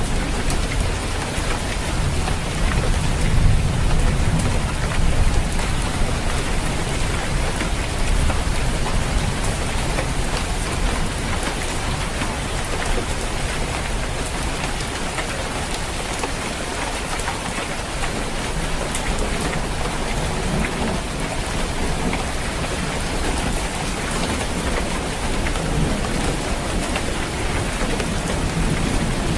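Steady rain falling on a roof, an even patter with no pauses. A low rumble sits under it, stronger over the first several seconds and again near the end.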